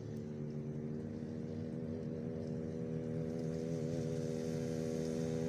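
Small engine running steadily, its pitch slowly rising and the sound getting louder, with a brief wobble in pitch about four seconds in.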